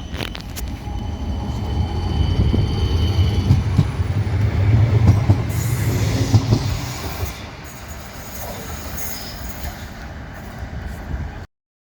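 Tram running past on street track. A low rumble builds to its loudest about five to six seconds in and then fades. High-pitched wheel squeal comes through in the first few seconds, and the sound cuts off abruptly near the end.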